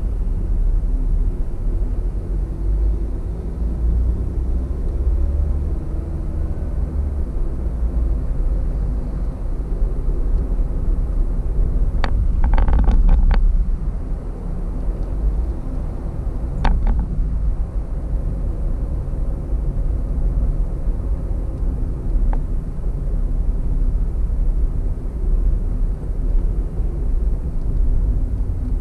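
Car interior at highway speed: steady low road and engine rumble with tyre noise. A short cluster of sharp clicks comes about halfway through, then a single click a few seconds later.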